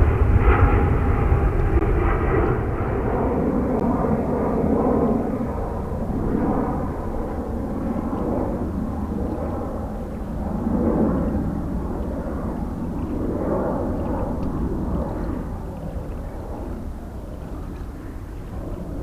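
Jet aircraft engines: a loud roar with a deep rumble, loudest at the start and slowly fading away.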